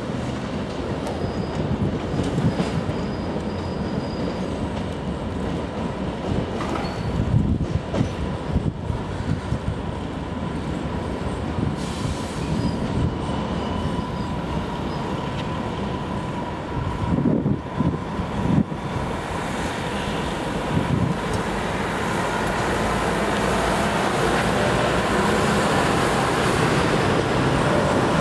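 London Underground trains running through the station: steady rumble of wheels on rail with a thin, steady squeal. Clusters of knocks come twice, about a third of the way in and again past the middle, and the sound grows louder near the end as engineering-train wagons pass.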